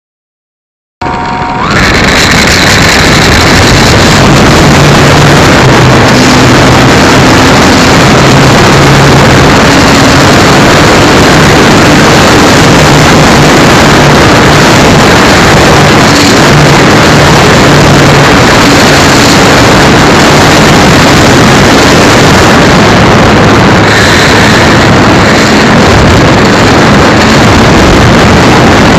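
Model airplane motor and propeller running steadily with heavy wind rush, picked up by a micro camera mounted on the RC Cessna 182. The sound is loud and noisy with a faint low hum that shifts slightly in pitch, and it cuts in abruptly about a second in.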